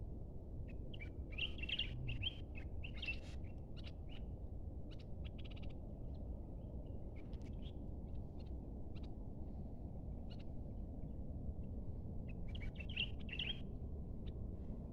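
Small birds chirping in short calls, with two busier bursts about a second and a half in and near the end, over a steady low rumble.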